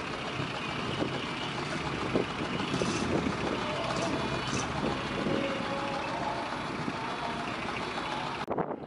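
Large decorated trucks' engines running, a steady dense rumble with faint steady tones and occasional knocks. The sound cuts off abruptly near the end.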